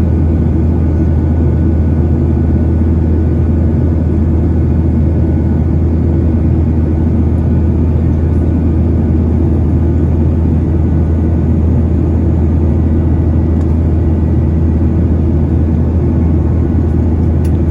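Cabin noise of a Boeing 737-900ER in flight: the CFM56-7B engines and the rush of air make a loud, steady low rumble, with faint steady whining tones above it.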